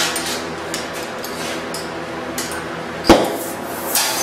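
Light metal clinks and taps, then a single sharp knock about three seconds in and a softer one near the end, over a steady faint hiss: metal pipe fitting and tools being handled.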